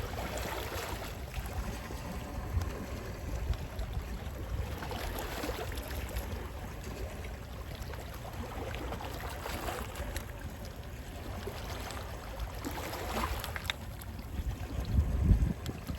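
Calm sea waves washing in and out steadily, with sea wind. A louder low wind rumble comes near the end.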